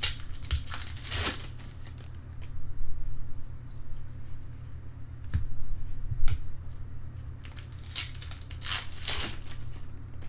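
Trading cards and their foil pack wrappers being handled: rustling and sliding, loudest about a second in and again about nine seconds in, over a steady low hum.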